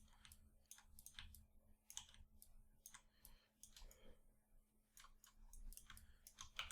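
Faint, irregular clicks of a computer mouse and keyboard, several a second and sparser around the middle, over a low steady hum of room tone.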